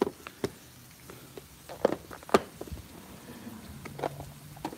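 Bacon and burger patties frying on a hot flat-top griddle, with scattered sharp pops of spattering grease over a low background hiss.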